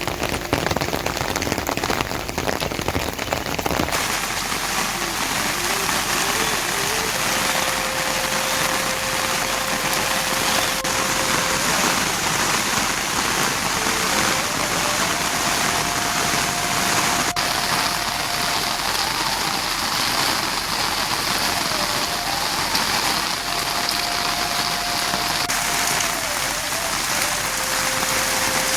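Steady rain falling, an even hiss that carries on without a break.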